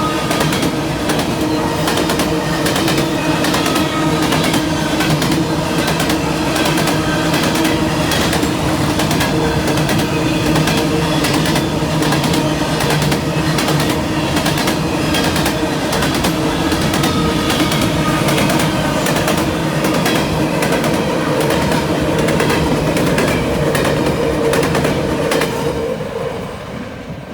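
Freight cars of a long CN train rolling past, their wheels clicking rapidly over rail joints with a steady faint squeal from the wheel flanges. The sound drops away sharply near the end.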